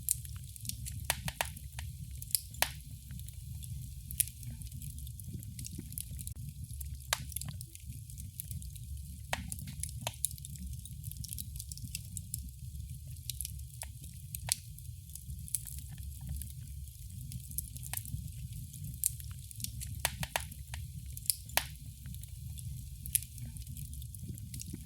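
Wood fire in a fireplace crackling: scattered sharp pops and snaps, irregularly spaced, over a steady low rumble.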